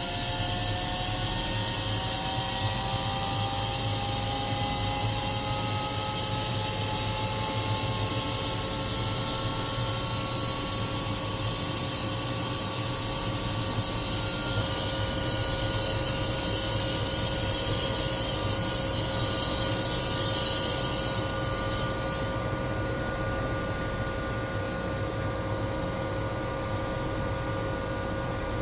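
Helicopter engine and rotor drone heard from inside the cabin, steady throughout, with whining tones that slowly rise in pitch over roughly the first dozen seconds and then hold steady.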